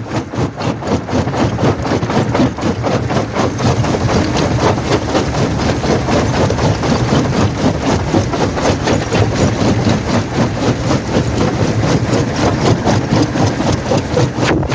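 Primary jaw crusher running and crushing rock: a loud, steady mechanical rumble broken by rapid, irregular knocks and cracks of stone breaking.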